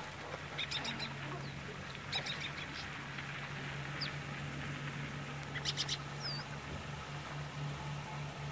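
Birds calling in three short, raspy bursts, with a couple of small high chirps, over a low steady hum.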